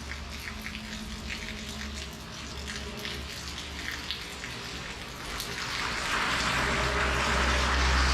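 Steady rain falling, with individual drops ticking and pattering through the hiss. About six seconds in, a louder, fuller hiss with a low rumble swells up and holds.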